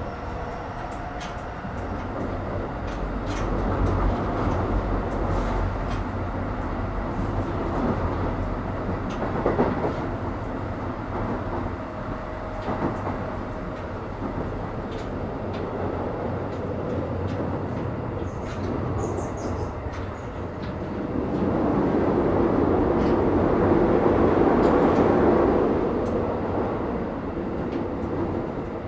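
Keikyu 1000 series (1890 subseries) electric train running, heard from inside the car. A steady rumble of wheels on rail carries scattered sharp clicks, and it swells louder for several seconds in the last quarter.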